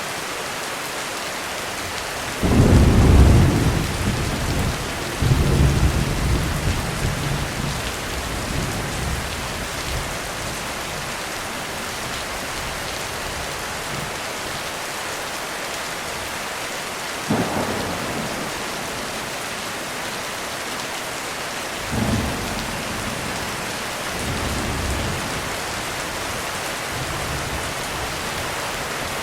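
Thunderstorm: heavy rain as a steady hiss. About two and a half seconds in, a loud thunderclap breaks and rolls on in a low rumble for several seconds. Sharper claps follow at about 17 and 22 seconds, each trailing off in a shorter rumble.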